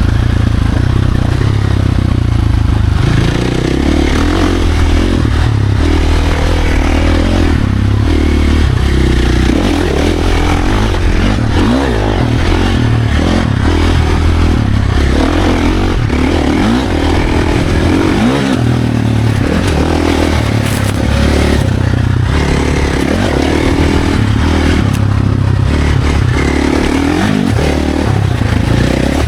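Dirt bike engine ridden hard on a trail, its pitch rising and falling again and again as the rider throttles up and backs off, with a constant rush of noise over it.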